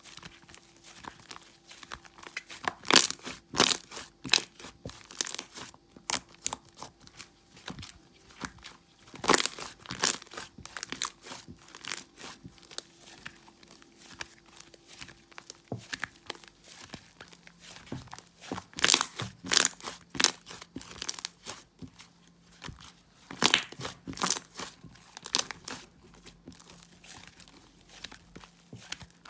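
Green slime being pressed and stretched by hand: clusters of sticky crackling and popping clicks, with quieter stretches between them.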